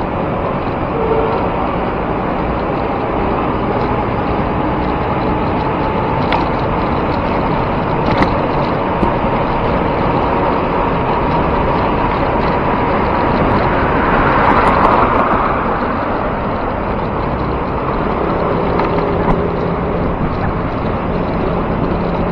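Steady rush of wind and road traffic heard from a moving bicycle in city traffic, with a passing vehicle swelling louder about fourteen seconds in.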